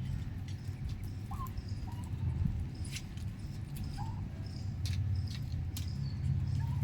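Young domestic turkeys giving scattered short peeps and chirps over a steady low rumble, with a few soft clicks.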